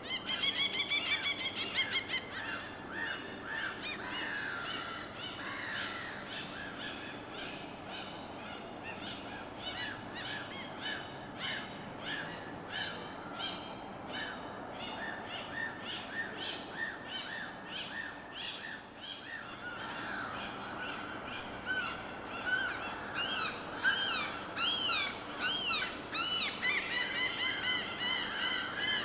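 Several birds calling over a steady wash of water. Quick repeated chirps come at the start, a continuous run of short calls follows, and louder, sharp calls come about two-thirds of the way through.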